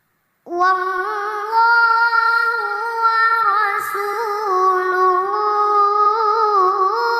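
A child qari's voice reciting the Quran in tilawah style. After about half a second of silence, the voice sets in loudly and holds one long melodic phrase, with small ornamental turns in pitch and no break for breath.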